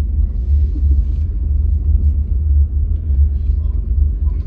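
Steady low rumble inside the cabin of a car driving slowly: engine and road noise.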